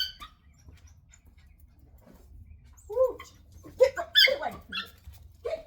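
Puppies barking, a quick run of short yips about three to five seconds in.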